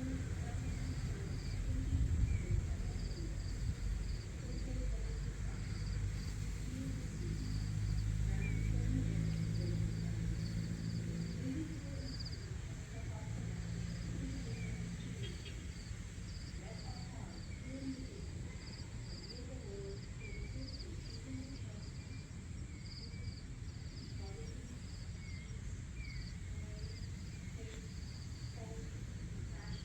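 Insects chirping in a steady, evenly repeated high pulse over a low rumble, which is strongest in the first half, with a few short bird chirps.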